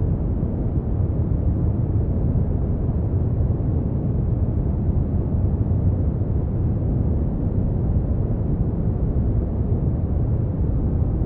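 Brown noise: a steady, deep rumbling hiss, strongest in the bass and fading away toward the treble, with no change.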